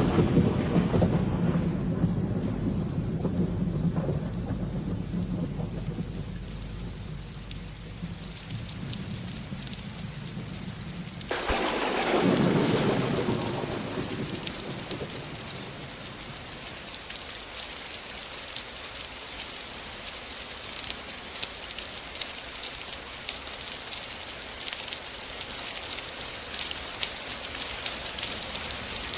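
Rain falling steadily with thunder. A thunderclap is rumbling away over the first few seconds. A second sudden crack of thunder comes about eleven seconds in and rolls for a few seconds, after which only the steady patter of rain remains.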